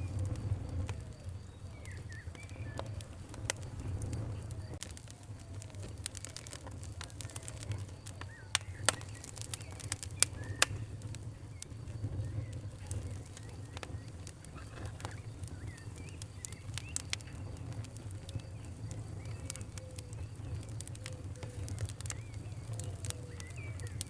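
Wood fire crackling, with irregular sharp pops over a steady low rumble of burning; three louder pops come close together about halfway through.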